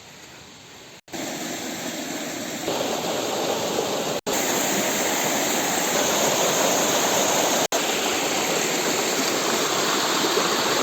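Waterfall rushing: a steady, dense roar of falling water that gets louder in steps about one and three seconds in, broken by three split-second dropouts.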